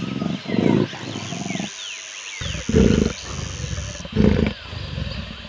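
A snow leopard growling: a series of short, rough, low growls, one after another, with faint bird chirps behind.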